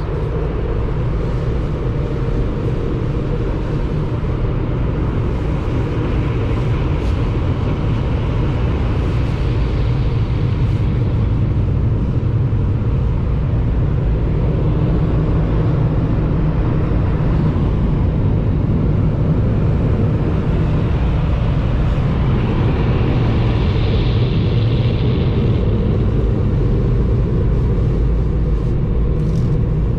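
Automatic car wash machinery heard from inside the car's cabin: a steady loud rumble, with a rushing hiss that swells up about six seconds in and again past twenty seconds.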